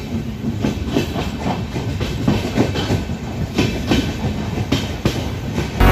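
Chauri Chaura Express passenger coach, heard from inside as the train moves out along the platform: a steady low rumble of the running gear with irregular knocks and clatter of the wheels and carriage.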